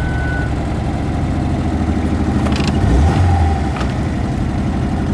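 Car engine running steadily as the car drives, with a brief stronger surge in the low engine note about three seconds in.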